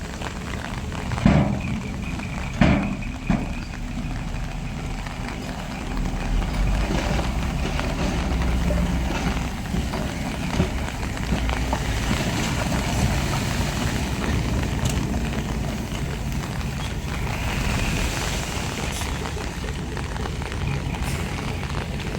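Heavy diesel construction machinery running steadily, with three sharp metallic clanks in the first few seconds.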